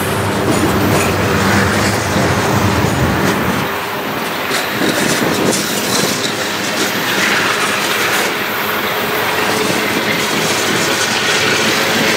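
CN freight train's covered hopper cars rolling slowly past, their wheels clacking over the rail joints, with intermittent wheel squeal.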